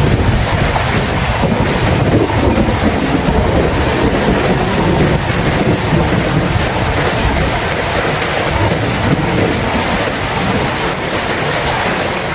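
Steady rain, with a low rumble of thunder through the first half that fades away.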